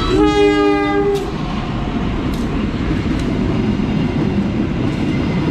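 Diesel locomotive's horn sounding one blast of about a second, two notes at once, as the train comes close, followed by the steady rumble of the locomotive and passenger coaches running past.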